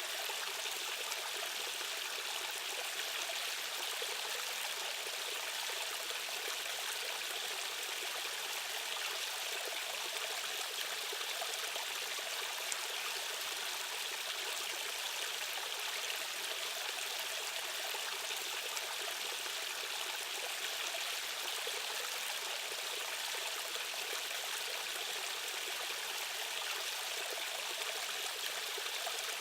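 Rushing stream water, a steady even splashing and gurgling flow with no change throughout.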